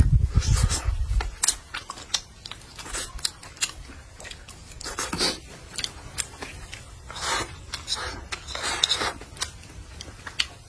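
Close-up eating sounds: biting and chewing food, with irregular crisp clicks and crunches between chews, and a low bump at the start.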